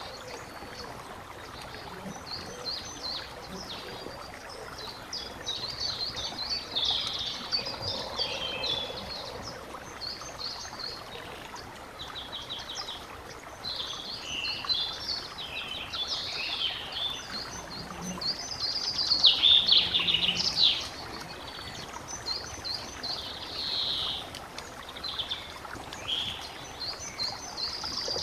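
Several songbirds singing and chirping in overlapping phrases over the steady rush of a stream, with the loudest burst of song about two-thirds of the way through.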